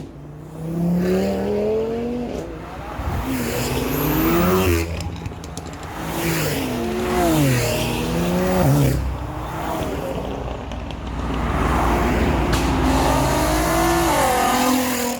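A run of car engines revving hard, one after another, their pitch climbing and dropping again and again, with abrupt cuts between revs.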